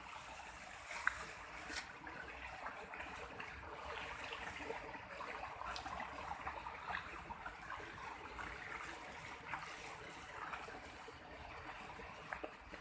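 Faint running water, a small stream trickling steadily with scattered small splashes.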